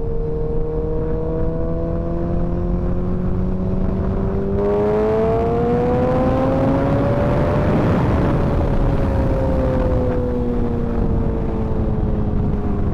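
Motorcycle engine pulling steadily, its pitch climbing slowly as it gains speed until about two-thirds through, then easing off and falling. Wind rush comes in strongly about a third of the way in.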